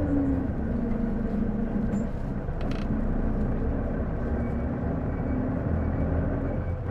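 Isuzu Erga city bus (PJ-LV234L1) heard from inside while under way: the diesel engine running with a humming tone that falls slightly near the start and then holds. This is the abnormal noise this bus makes, which the owner likens to the automatic-transmission sound of a PDG-LR and suspects comes from the transmission.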